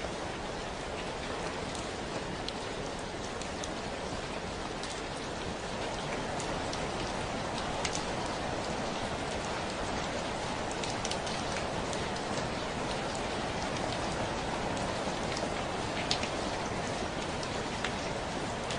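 Steady rain falling, with individual drops clicking sharply here and there against a surface over the even hiss. It grows slightly louder about a third of the way in.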